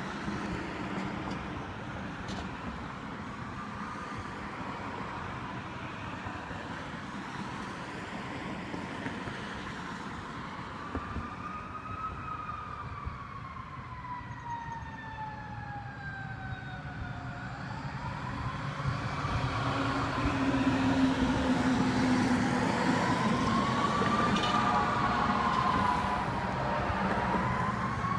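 Emergency vehicle siren wailing, its pitch slowly rising and falling over a low vehicle rumble, growing louder about two-thirds of the way through as it approaches.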